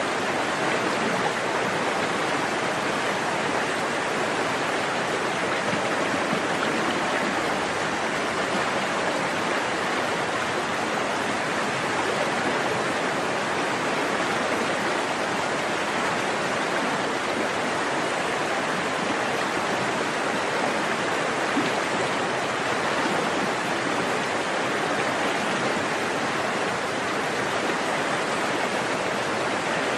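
A small stream flowing, its water rushing and babbling steadily without a break.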